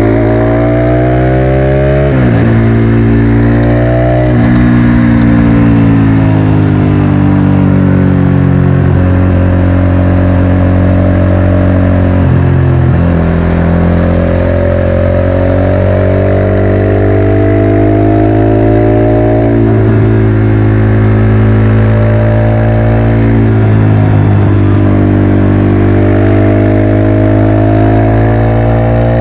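Motorcycle engine pulling through the gears under way: its pitch climbs steadily, then drops sharply at each gear change, about five times.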